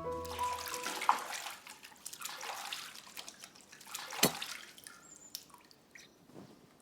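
Water splashing and dripping, with a single sharp knock about four seconds in, as the background music fades out at the start.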